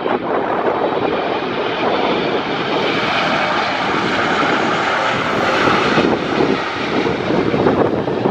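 Jet engines of a Boeing 777-300ER (GE90-115B turbofans) on landing approach, passing close, their roar strongest in the middle, with gusty wind buffeting the microphone.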